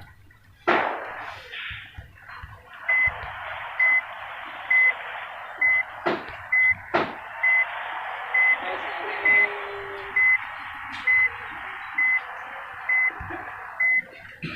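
Electronic beeper sounding one short high beep about once a second, over a steady hiss, with a few sharp knocks before the beeping starts.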